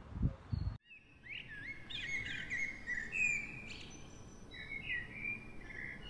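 Songbirds singing, a run of chirps and short whistled trills that starts after an abrupt cut about a second in. Before the cut there is a brief low rumble.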